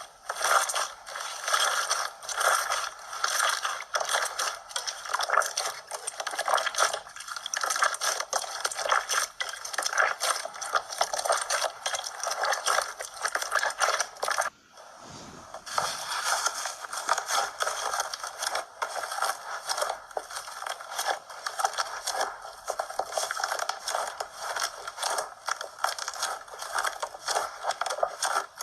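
Slime being squeezed and worked by hand, giving a dense run of wet crackles, pops and squishes. It breaks off briefly about halfway through, then carries on.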